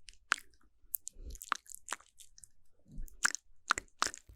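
Close-miked ASMR mouth sounds: wet clicks and lip smacks at an irregular pace, with a faint low breathy murmur between them.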